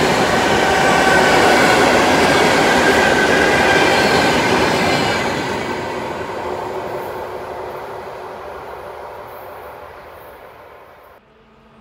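ET2M electric multiple unit passing along the platform, its wheels and running gear loud with a high whine over them. The last car goes by about five seconds in and the sound fades away steadily, then drops off abruptly just before the end.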